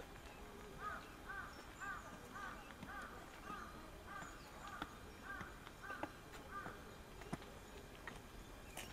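A bird calling a quick series of about eleven short, arched calls, roughly two a second, that stops a little before the end.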